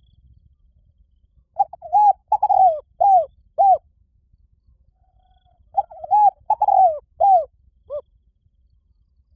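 Spotted dove cooing: two phrases of about five coos each, the first starting about one and a half seconds in, the second near six seconds.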